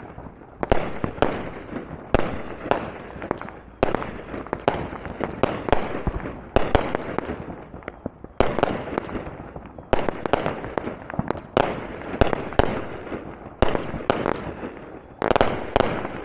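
Consumer firework cakes going off: a rapid string of sharp bangs, about one or two a second, each trailing off in crackle.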